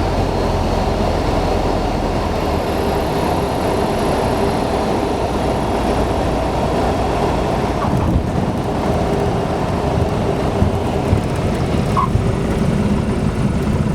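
Piper Cherokee 180's four-cylinder Lycoming O-360 engine and propeller running steadily with airflow noise as the plane comes in to land, with a brief knock about eight seconds in.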